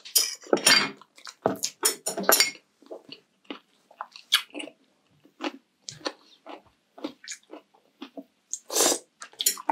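Close-miked wet chewing of balut (boiled fertilised duck egg), in short irregular bursts with brief pauses.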